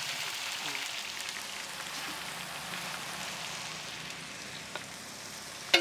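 Ginger-garlic paste sizzling in hot oil and ghee with browned sliced onions: a steady frying hiss, easing off a little. Right at the end, a sharp metallic clank with a short ring.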